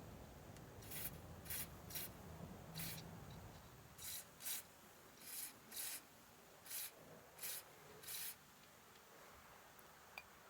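About a dozen short, irregular rubbing strokes, like hand sanding or filing on a part, each lasting a fraction of a second.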